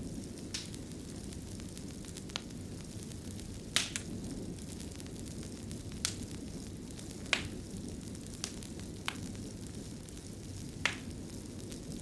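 Wood fire burning in a stone fireplace: a steady low rumble with about eight sharp crackling pops at irregular intervals, the loudest about four and seven seconds in.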